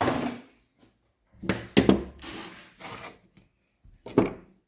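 Handling noise at a workbench: plastic blower-tube parts and a rag rubbed and knocked about in several short bursts.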